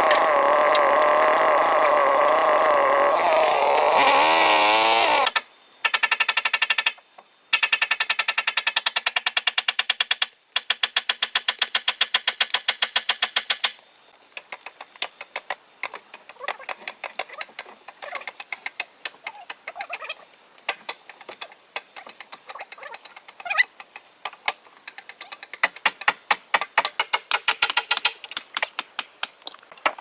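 A chainsaw running steadily, then winding down and cutting off about five seconds in. It is followed by a fast, even mechanical rattle with two brief pauses, and then irregular tapping and clicking.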